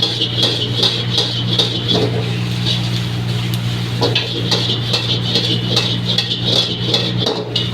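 A metal spatula scraping and clattering against a wok in quick, irregular strokes as vegetables are stir-fried, over a steady low hum.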